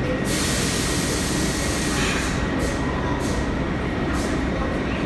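New York City subway train at a station platform, a steady loud rumble with a burst of high hiss starting just after the start and lasting well over a second, then three shorter hisses.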